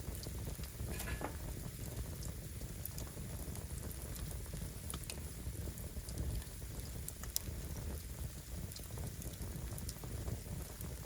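Firewood burning: scattered sharp crackles and pops over a steady low rumble, with a brief faint high squeal about a second in.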